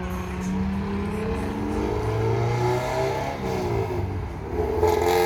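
Car engine revving, its pitch climbing and falling, then climbing again near the end.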